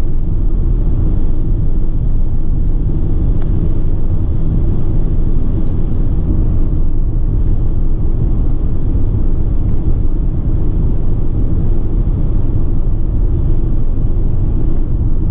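Ford Transit dropside truck's diesel engine and tyre and road noise, heard inside the cab while driving at a steady speed. The sound is a steady low rumble with no knocks or other odd noises.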